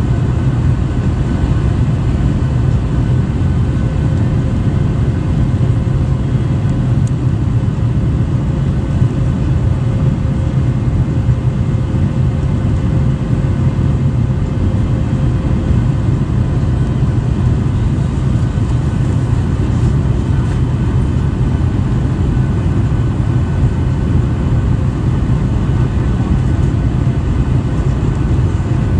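Boeing 737-800 in flight, heard from the passenger cabin: a steady, even drone of its CFM56 jet engines and airflow, with faint steady whines above the low rumble.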